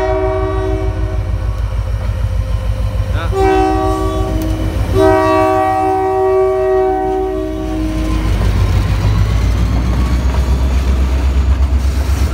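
A CN diesel freight locomotive sounds its multi-chime air horn three times as it passes close by: the end of a long blast, a short one, then a long one, over the low running of its diesel engine. From about 8 s in, the tank cars roll past with their wheels clicking rhythmically over the rail joints.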